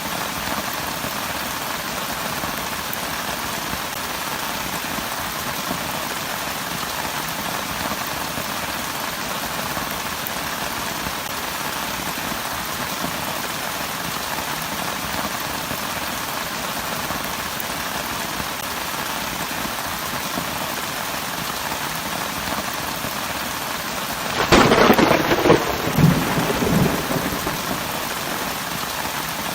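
Steady heavy rain. Near the end a loud clap of thunder breaks through and lasts a couple of seconds before the rain carries on alone.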